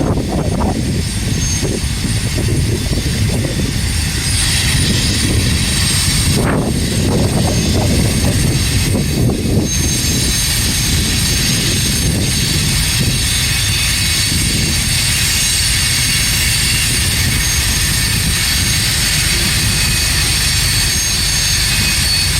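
Freight train rolling past: a steady, loud rumble of wheels on rail with a hiss above it and a faint high whine.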